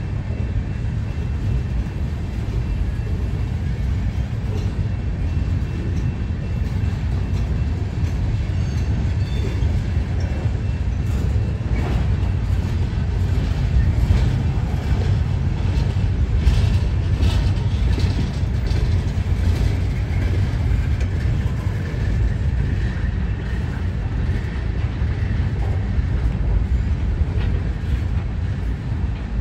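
A long string of empty steel scrap gondola cars rolling past on a freight train, making a steady low rumble of wheels on rail. Short clanks and rattles from the cars come through, most of them in the middle of the passage.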